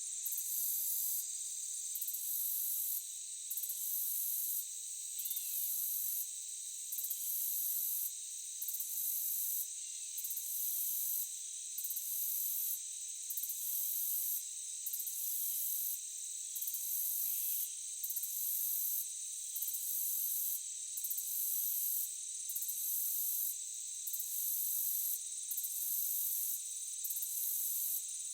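Chorus of forest insects, crickets among them: a steady high drone with a louder, very high trill that starts and stops about every one and a half seconds.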